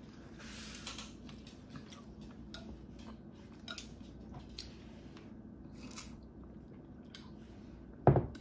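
Close-miked chewing of jjajangmyeon black bean noodles: scattered small wet clicks and smacks of the mouth over a steady low hum, with one loud thump near the end.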